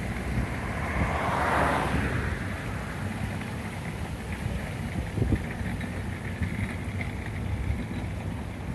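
Wind buffeting the microphone as a steady low rumble, with a swell of hissing noise that rises and fades about a second and a half in and a short knock a little past halfway.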